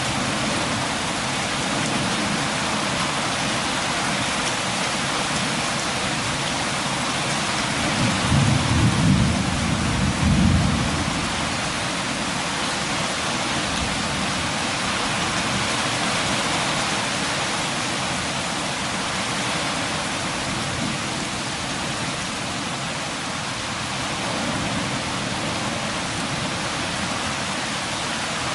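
Steady rain falling and pattering. About a third of the way in, a low roll of thunder rumbles for a few seconds.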